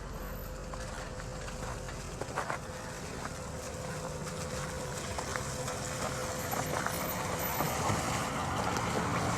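Street noise with a motor vehicle running, growing slowly louder toward the end, over a steady faint tone and a few light knocks about two seconds in.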